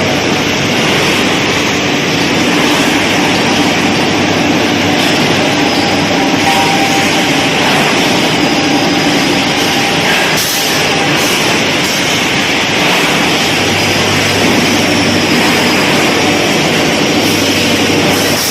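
Rolling mill machinery running with a loud, steady industrial din and a faint hum, with one brief knock about ten and a half seconds in.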